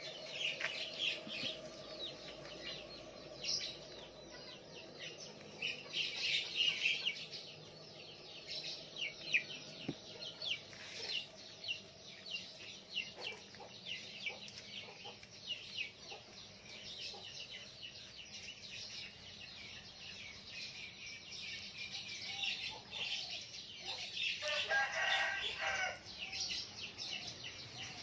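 Birds chirping with many quick calls throughout, and a longer call near the end.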